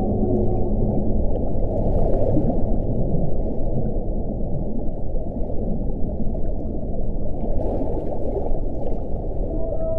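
Wind blowing in a steady low rush, with faint howling tones near the start and again near the end.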